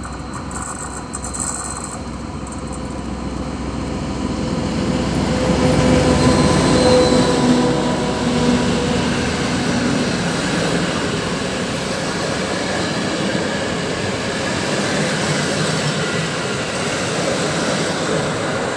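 Diesel-hauled passenger train passing close by. The locomotive's engine grows louder as it approaches and is loudest about six seconds in. The coaches' wheels then keep rolling steadily over the rails.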